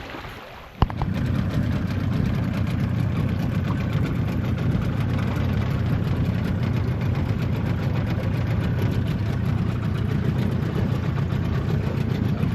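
Outboard motor on a small aluminium boat running steadily under way. It cuts in abruptly after a sharp click about a second in.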